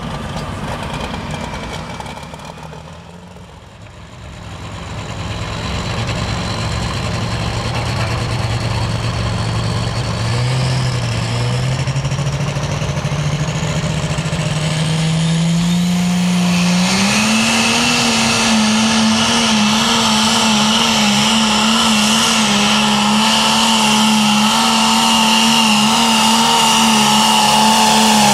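Super stock pulling tractor's turbocharged engine winding up: the engine note climbs steadily with a rising turbo whistle, then holds at high revs under full power for the last third.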